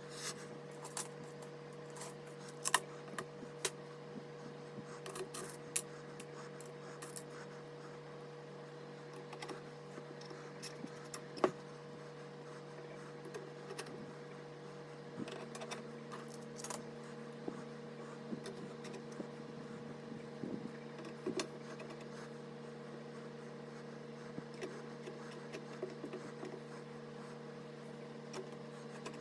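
Scattered small clicks, taps and light rattles of PC hardware and screws being handled, over a steady electrical hum; a second, lower hum tone joins about halfway through.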